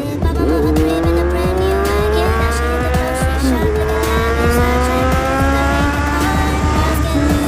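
Kawasaki Z900 inline-four motorcycle engine accelerating through the gears: its exhaust note climbs steadily in pitch, drops at an upshift about three and a half seconds in, climbs again, and shifts once more near the end. Music with a steady bass runs underneath.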